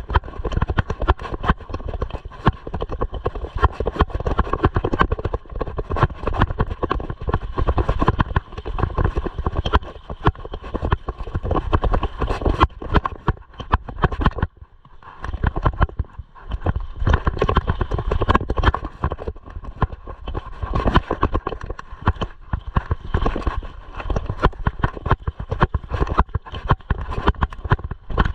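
Mountain bike rattling and knocking over a rough dirt trail, with wind rumbling on the microphone; a steady stream of small impacts that goes briefly quieter about halfway through.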